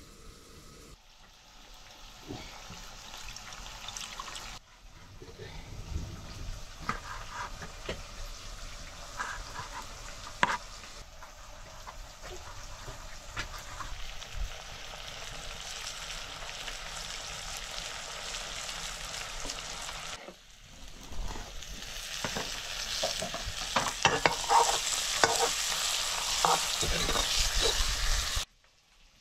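Food sizzling in a frying pan as it is stirred, with scattered clinks and scrapes of the spoon against the pan. The sizzling grows louder in the later part.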